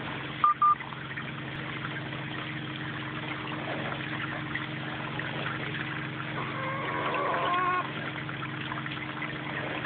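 Steady drone of a carpet-cleaning machine's motor and vacuum. Over it come two short bird peeps about half a second in, and a longer warbling call about seven seconds in, from the young chickens.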